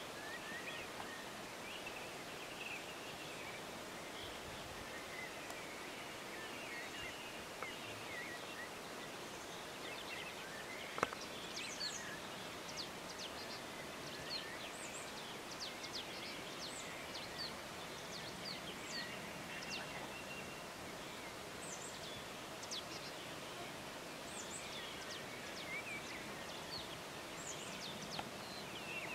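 Small songbirds chirping and trilling, many short high calls over a steady faint hiss, with one sharp click about eleven seconds in.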